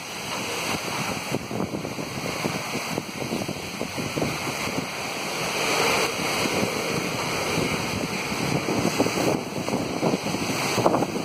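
Torrential rain pouring down in strong wind, a steady rushing noise, with gusts buffeting the microphone.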